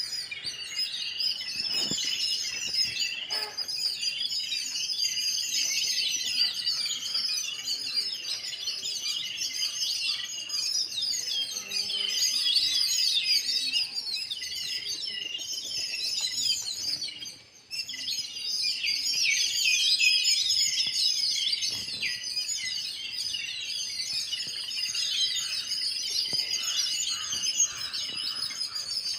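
Many sparrows chirping at once, a dense chatter of short, overlapping chirps, with a brief gap just past the middle.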